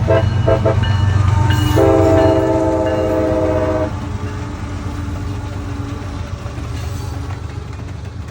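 CSX diesel locomotive running by with a steady low engine rumble. Its air horn gives a few short toots, then one long chord blast about two seconds in that lasts about two seconds.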